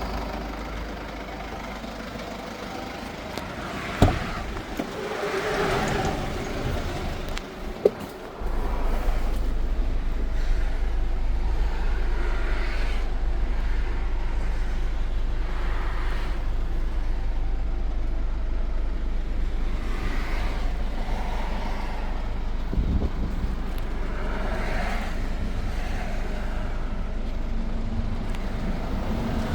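Mercedes-Benz Sprinter van's diesel engine idling with a steady low drone. There are two sharp knocks about 4 and 8 seconds in, and the drone comes back louder just after the second.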